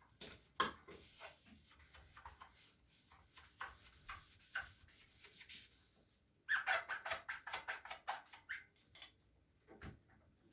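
Wet cleaning sponge being squeezed and worked: scattered squishy crackles, then a louder run of rapid high squeaks a little past halfway.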